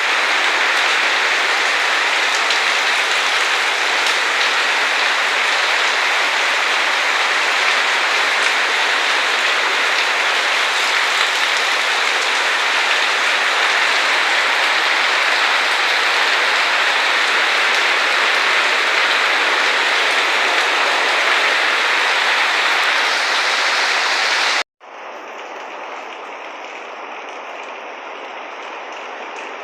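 Heavy tropical rain falling in a steady downpour hiss. About 25 seconds in, the sound cuts out for an instant and resumes noticeably quieter.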